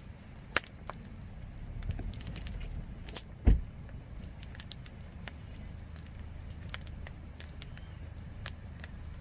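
Campfire wood crackling, with sharp pops at irregular intervals over a low steady rumble. A single louder, deeper thump comes about three and a half seconds in.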